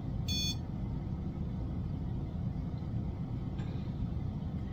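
One short high electronic beep about a third of a second in, over a steady low hum.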